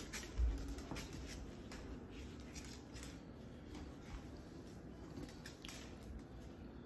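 Faint scratching and rustling with scattered light clicks, a little louder about half a second in.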